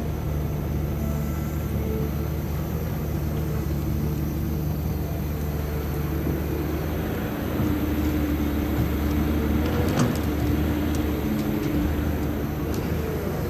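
Cat ACERT diesel engine of a Caterpillar 320D excavator running steadily. About halfway through it grows a little louder and a higher hum joins in, with a few sharp clicks about ten seconds in.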